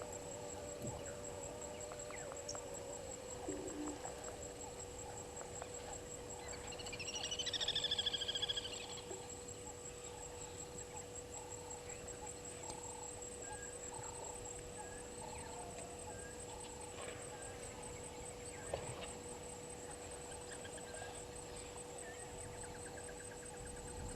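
Loud bird call lasting about two seconds, starting about seven seconds in, with several overtones, over a steady high insect trill and a steady low hum; faint chirps follow later.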